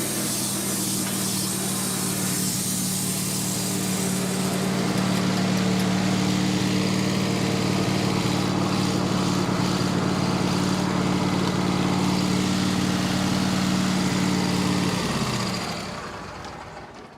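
Wood-Mizer LT15 bandsaw mill running steadily, its band blade cutting through a larch log for the first few seconds. About fifteen seconds in, the engine winds down and stops.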